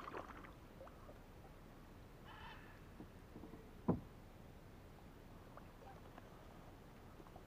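A bird gives one short, nasal, honking call about two seconds in, over a faint quiet background; a little later a single sharp knock stands out as the loudest sound.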